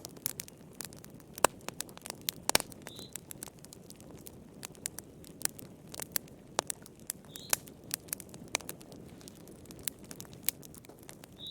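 Wood fire crackling: irregular sharp pops and snaps over a low, steady hiss of flames. A faint short high chirp comes back about every four and a half seconds, three times.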